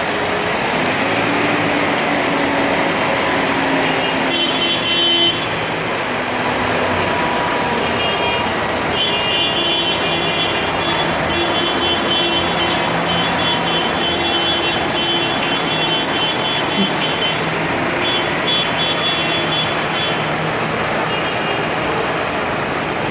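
Tractor engines running as a line of tractors goes past, with steady pitched tones over the engine noise now and then.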